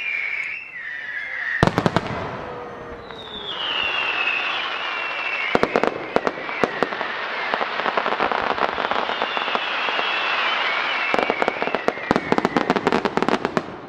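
Starmine fireworks being fired: long high whistles that slide down in pitch, over sharp bangs and crackling bursts. A pair of loud reports about two seconds in, scattered bangs around six seconds, and a dense run of crackles near the end.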